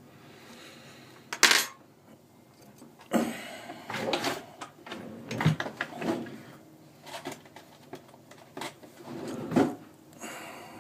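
Small repair tools and phone parts clicking, knocking and scraping on a work surface during an iPhone 4S teardown, with a sharp knock about one and a half seconds in and a busier run of scrapes and taps in the middle.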